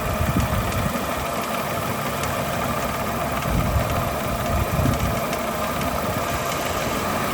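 Chevrolet Aveo engine idling steadily with the air conditioning on, with a metallic ringing rattle from the accessory drive. The rattle comes from a faulty drive-belt tensioner and its pulley, and is heard only at idle with the AC switched on.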